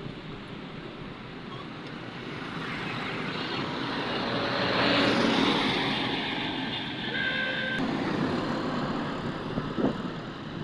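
Road traffic noise, swelling as a vehicle passes about five seconds in and easing off afterwards.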